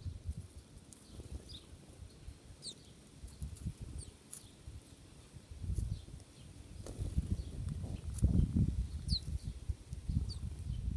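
Small songbirds giving scattered short, high chirps, over irregular low thumps and rumbling that are loudest a little past the middle.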